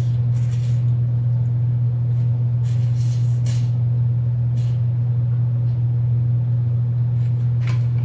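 Steady low hum, with a few brief soft hissing noises about half a second, three seconds and four and a half seconds in.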